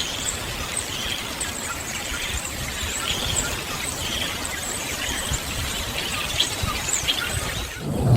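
Birds chirping, many short high calls scattered over a steady rushing background noise.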